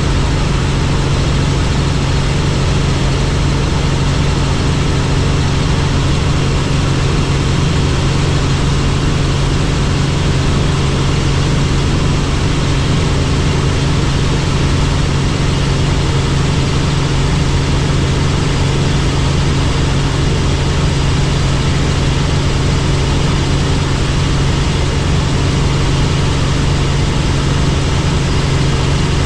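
Helicopter engine and rotor running steadily: a loud, even drone with a constant low hum and no change in pitch.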